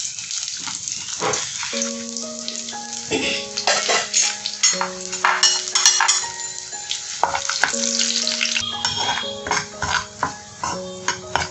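Garlic, ginger and whole spices sizzling hard in hot mustard oil in a frying pan, stirred with a spatula near the end. Background music with held notes comes in about two seconds in.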